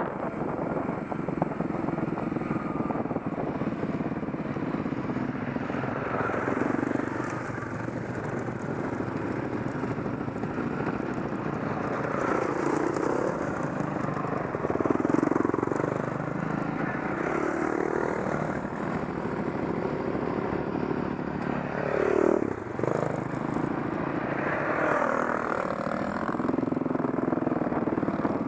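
Dirt bike engine running on a trail ride, its pitch rising and falling again and again as the throttle is opened and eased off.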